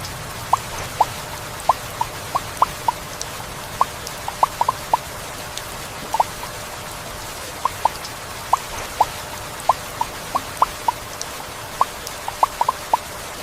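Heavy rainforest rain falling steadily, with single drops plinking close by at irregular intervals, about two a second.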